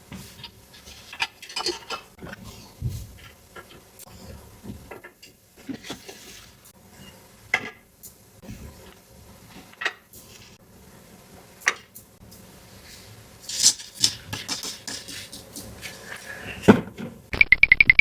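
Small hard plastic toy pieces from a Peppa Pig playset being handled, with scattered clicks, taps and clinks as they knock together and against a surface, and a quicker run of clicks about three-quarters of the way through. Just before the end, a fast-pulsing tone starts.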